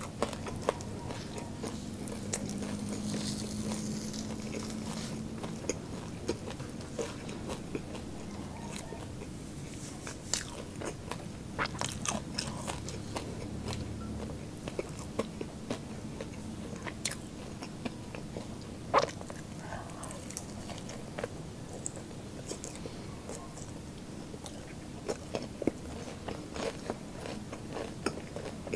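Close-miked chewing of crispy fried pork belly (lechon kawali), with sharp, irregular crunches from its crackling skin. The loudest crunch comes about two-thirds of the way through.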